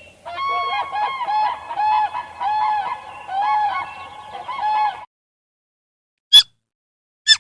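Waterfowl honking repeatedly, about eight calls in five seconds. It stops abruptly, and after a pause come two short, sharp calls of a different kind.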